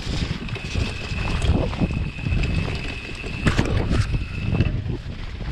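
Bird Aether 7 mountain bike riding down a damp trail: wind buffeting the GoPro microphone and the bike knocking and rattling over the ground. A thin, steady high whine runs alongside and breaks off about four and a half seconds in.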